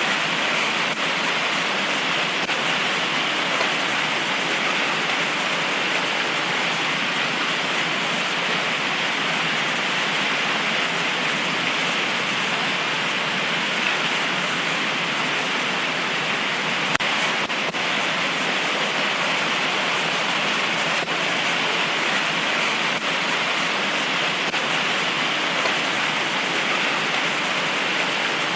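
Heavy tropical rain pouring steadily, a dense even hiss with faint scattered drop ticks and one sharper tick about 17 seconds in.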